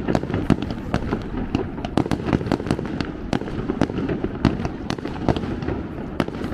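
Aerial fireworks going off in rapid succession: many sharp bangs, several a second, over a continuous low rumble of shells bursting.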